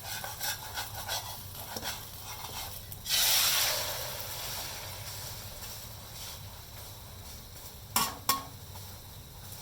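A utensil scraping and stirring in a frying pan. About three seconds in comes a sudden loud burst of sizzling in hot oil that slowly dies down, and two sharp knocks sound near the end.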